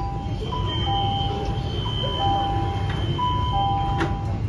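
Repeating electronic two-note beeping, a higher and a lower note alternating, each held under a second, over the low rumble of a CRRC Changchun Type-A metro train.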